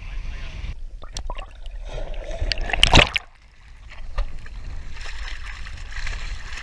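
Wind rumbling on the microphone over water noise around a small boat, with a few sharp clicks and one sudden loud burst of noise about three seconds in, followed by a brief lull.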